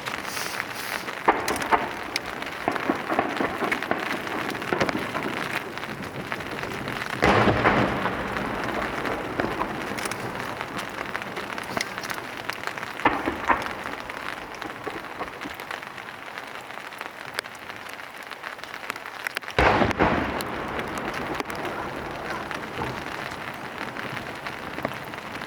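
Steady rain noise throughout, broken by two deep booms from large No. 8 and No. 10 aerial firework shells bursting, one about a third of the way in and one about three-quarters through, each trailing off slowly, with a few sharper cracks in between.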